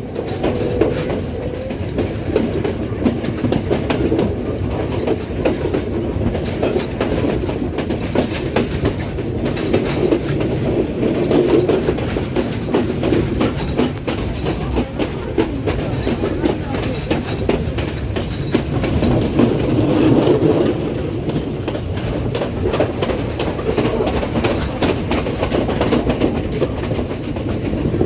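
Colombo–Badulla night mail passenger train running steadily, its wheels clattering over the rail joints with a constant rumble.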